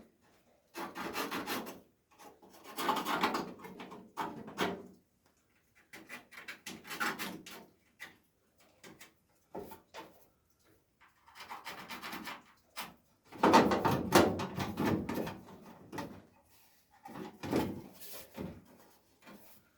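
Repeated scraping and rubbing strokes on car sheet-metal bodywork during panel fitting, coming in bursts of one to two seconds with short pauses between; the loudest burst comes about two-thirds of the way through.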